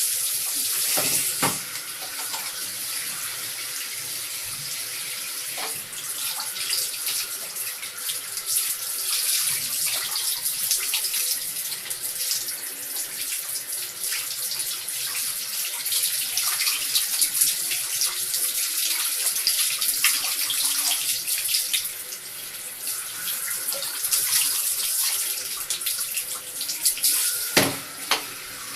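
Tap water running steadily and splashing during a cat's bath, with a few short knocks, the loudest near the end.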